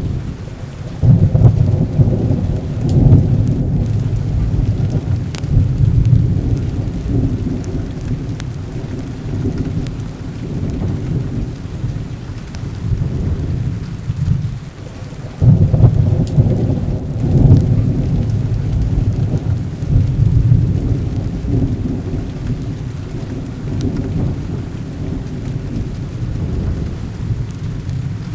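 Heavy rain with rolling thunder: a long low rumble swells about a second in and slowly fades, and another swells about halfway through, over a steady hiss of rain.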